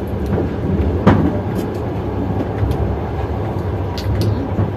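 Passenger train running along the line, heard from inside a compartment: a steady low rumble of wheels and carriage, with a sharp click about a second in and a few faint ticks later.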